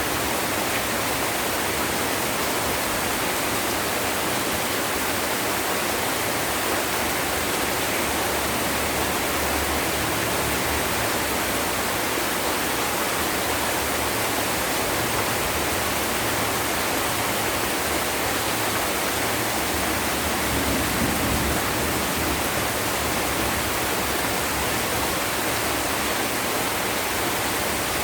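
Heavy rain falling steadily, a dense even hiss with no distinct drops or thunder. A brief low rumble swells slightly about 21 seconds in.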